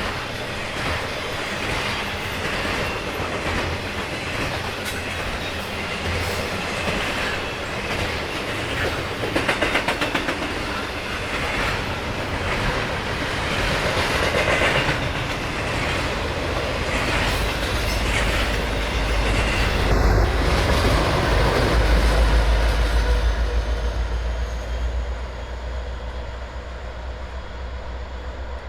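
Long freight train passing at speed, its wheels clattering over the rail joints in a steady rush of rail noise. Near the end a low diesel rumble swells and then eases off as the locomotives pushing at the rear go by.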